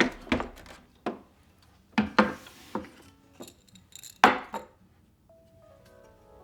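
A run of sharp knocks and clatters as household objects are handled and set down, the loudest about four seconds in. Soft music with held notes comes in about a second later.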